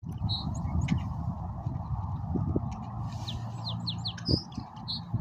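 A small songbird calling with a quick series of short, high chirps and falling slurred notes, over a steady low rumble of background noise.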